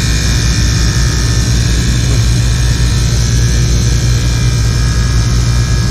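Lennox rooftop package unit running steadily in cooling with stage 4 on, its compressors and condenser fans giving a loud, even hum and hiss. Only two of its six condenser fans are working.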